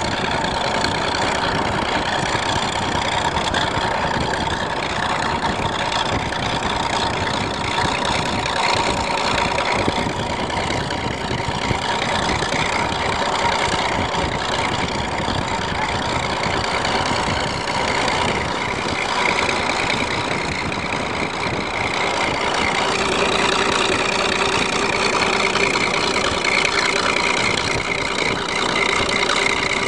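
Vehicle engine running steadily under a sustained high whine, some of its tones shifting in pitch about 23 seconds in.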